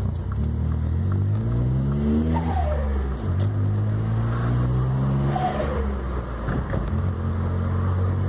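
Volkswagen up! TSI's turbocharged three-cylinder engine accelerating hard: its pitch climbs, drops at a gear change about three seconds in, then climbs again before easing off near six seconds.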